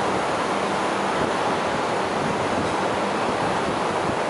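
Steady rushing rumble of a non-stop through train's passenger coaches running away from the platform along the track.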